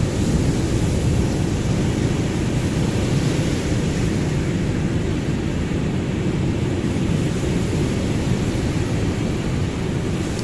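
Ocean surf: a steady, deep rushing of waves, its higher hiss easing off in the middle and swelling again near the end.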